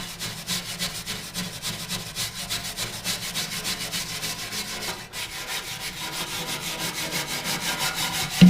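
Hand scraper scraping carbon deposits off the metal walls of a Golden Fire pellet stove's combustion chamber: quick back-and-forth strokes, about five a second, with a short pause about five seconds in. A steady low hum runs underneath.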